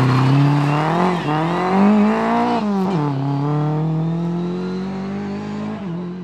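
Rally car engine at full throttle, its note climbing and dropping sharply twice as it shifts through the gears, then holding a long steadier note that slowly sinks and fades away.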